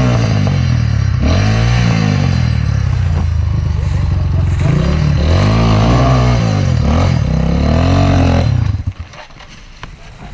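Enduro dirt bike engine revving up and down over and over as the throttle is worked, then stopping abruptly about eight and a half seconds in.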